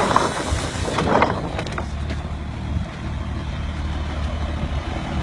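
A heavy vehicle's engine running with a steady low drone, with a few short knocks about a second in.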